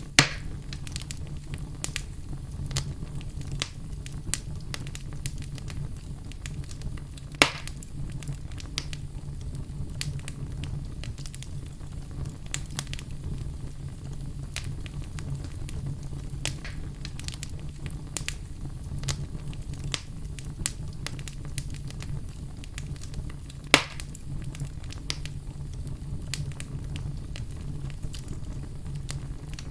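Wood fire burning in a fireplace: a steady low rumble of flames with continual irregular crackles and three louder sharp pops, one at the very start, one about seven seconds in and one near the middle.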